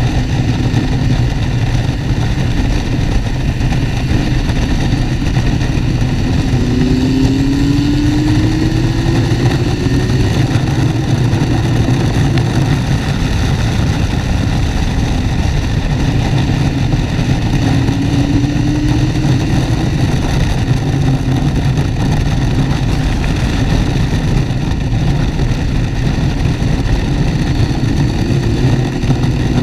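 Motorcycle engine running under way, its pitch rising as it accelerates about seven seconds in, again around eighteen seconds and near the end, over steady wind noise.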